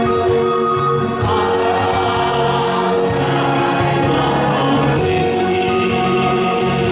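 A crowd singing along with the singers to a Mandarin pop song, over a backing track with a steady beat.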